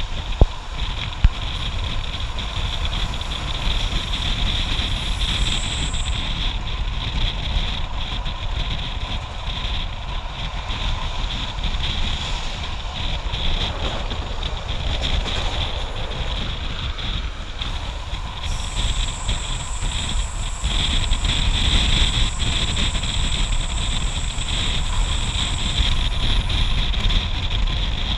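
Moving passenger train heard from an open window: wind buffeting the microphone over the steady rumble of the wheels on the rails, with two sharp clicks about a second in. A thin high whine joins for several seconds in the second half.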